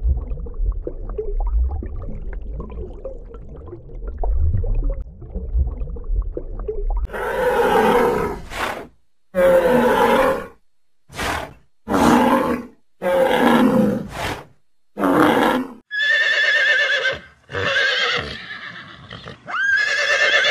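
A farm animal calling repeatedly, about ten short calls with a wavering pitch, set apart by abrupt gaps. The calls follow several seconds of low rumbling noise.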